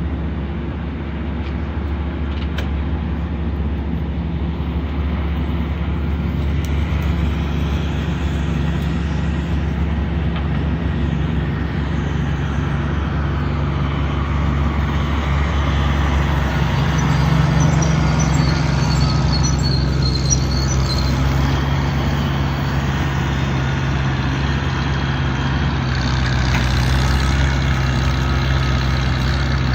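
An engine running steadily at a low, even hum, its pitch shifting slightly a couple of times.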